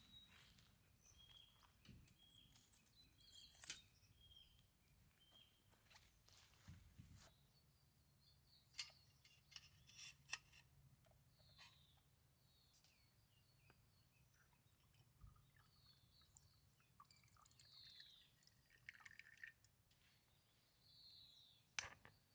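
Faint birdsong: a string of short high chirps early on, then several brief down-slurred calls, with scattered light clicks and taps.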